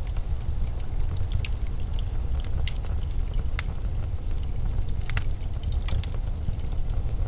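Blizzard wind making a steady low rumble, with irregular sharp crackles and ticks scattered over it.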